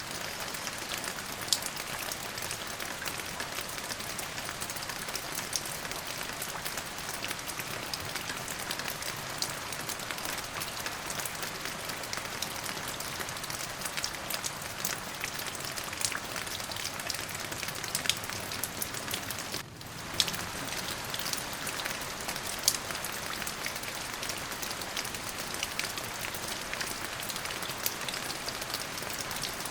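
Steady rain falling, an even hiss with many sharp individual drop ticks hitting a surface. The sound drops out briefly for a moment about twenty seconds in.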